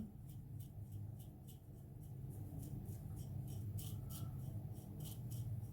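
Gillette Black Beauty double-edge safety razor scraping through stubble in a quick run of short strokes, about two to three a second.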